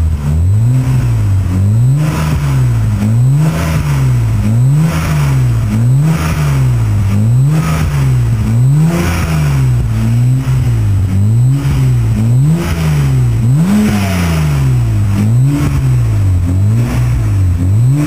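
BMW E92 335i's turbocharged straight-six revved over and over through a Remus quad sports exhaust, the pitch climbing and dropping back about once a second in a steady run of quick blips. The tone is loud and raspy.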